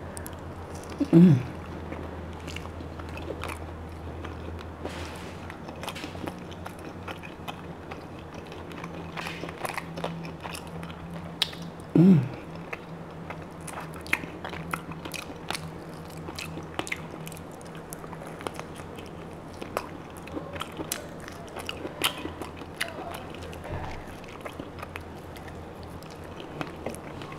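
Close-miked chewing and biting while eating roast rack of lamb, with many small wet mouth clicks. The meat is gnawed off the rib bone. Twice, about a second in and again near the middle, there is a brief louder sound that falls in pitch.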